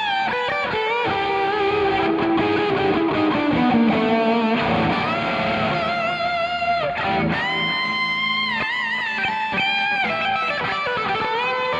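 Epiphone solid-body electric guitar played lead: melodic single notes with string bends rising into held notes, and vibrato, the longest held bend about eight seconds in.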